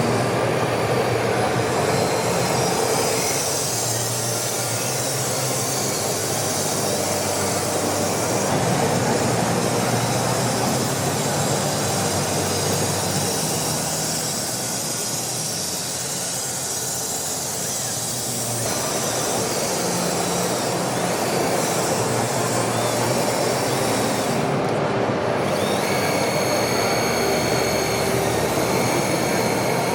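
Small electric motors and gearboxes of home-made miniature RC trucks and tractors whirring steadily as the models run.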